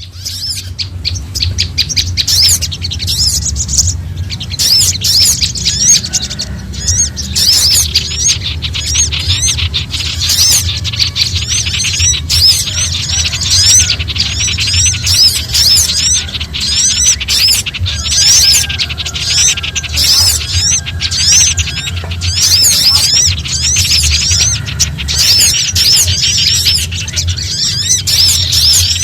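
Bird-lure recording of many small songbirds chattering in alarm at once, a dense run of rapid high chirps and sweeps with no pauses, a mix said to include prinia and sunbird calls. A steady low hum runs underneath.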